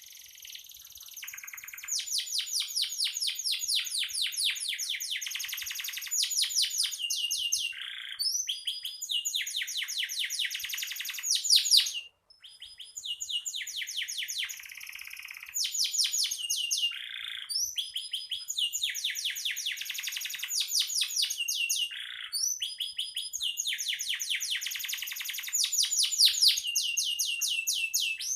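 Domestic canary singing continuously in long phrases of rapid repeated trilled notes, high-pitched, with a short pause about twelve seconds in.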